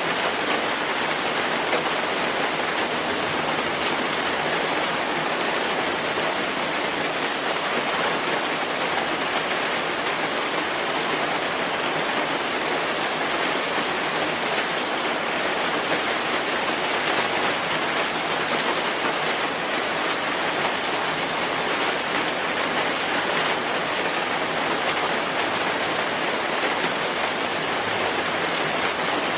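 Steady rainfall, a dense even hiss of drops with faint individual patters, holding at one level throughout.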